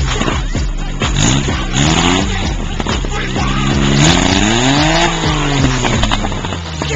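Car engine being revved several times, its pitch climbing and falling with each rev.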